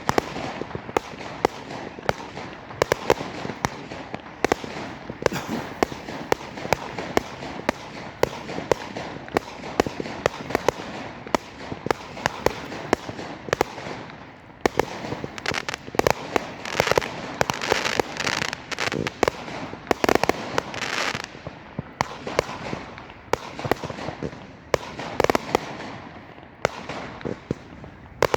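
Fireworks going off in quick succession: a dense run of sharp bangs and crackles, several a second, thickest a little past the middle.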